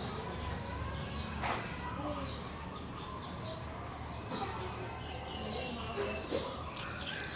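Birds chirping over and over in short, high, falling notes, over a low steady background hum.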